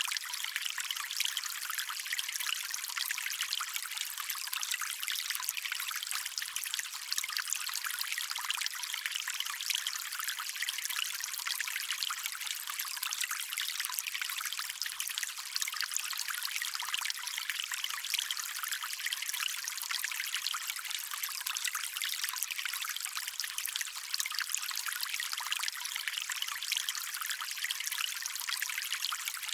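Small stream water trickling and splashing steadily, a bright continuous patter with little low rumble.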